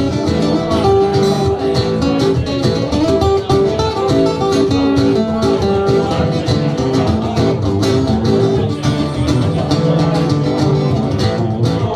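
Instrumental break in a country song, with acoustic guitar picking a quick melody over held accompanying notes.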